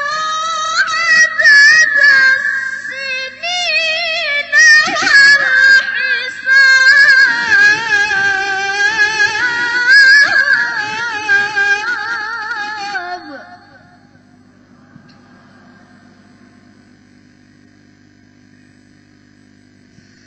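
A girl reciting the Quran in melodic tilawah style: one long, ornamented phrase with wavering pitch. It ends about 13 seconds in and is followed by a pause with only faint background sound.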